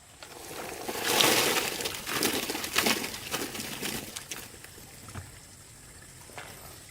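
Water splashing and sloshing, rising to its loudest about a second in and dying away after about four seconds into a few faint splashes.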